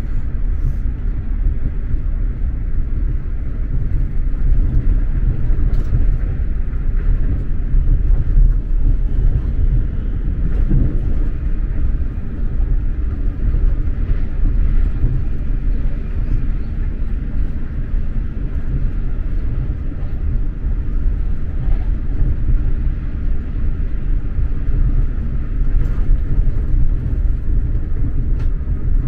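Steady low rumble of an X2000 high-speed train running along the line, heard from inside the passenger car, with a few faint clicks.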